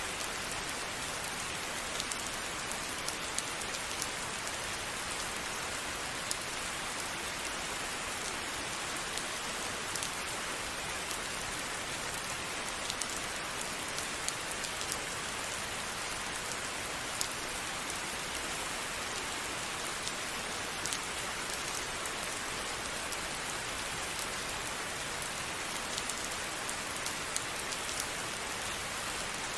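Steady rain falling: an even hiss with scattered sharper ticks of single drops striking a surface.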